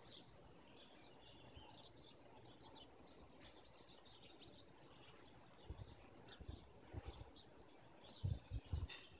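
Near silence outdoors with faint, scattered bird chirps. A few soft low thumps come about six seconds in and again near the end.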